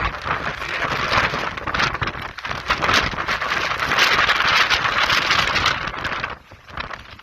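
Strong, gusty dust-storm wind rushing and buffeting the microphone, easing off about six and a half seconds in.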